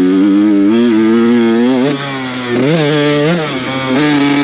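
Two-stroke dirt bike engine with a Mikuni TMX38 carburetor, under way on the throttle. It runs at a steady pitch, drops off about two seconds in, then rises and falls in a quick blip before settling back to a steady pitch near the end.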